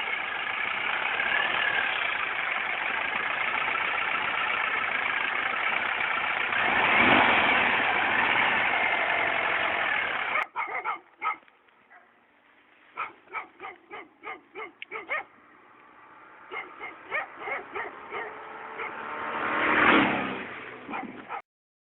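An engine runs steadily and swells about seven seconds in, then cuts off abruptly. After that come runs of short, sharp barks from a dog, and a second swell of engine noise near the end.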